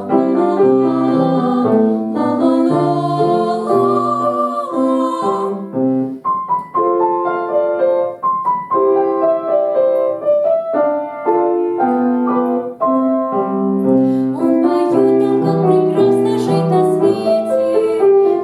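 Piano playing a run of short notes, a melody over a repeating bass. The upper part thins out about five seconds in and comes back fuller near the end.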